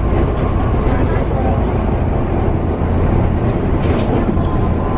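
Steady low rumble of a vehicle heard from inside, with faint voices in the background.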